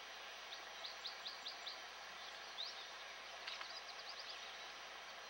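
A songbird singing two quick runs of short high notes, about six or seven notes each, with a single rising note between them, over a steady hiss.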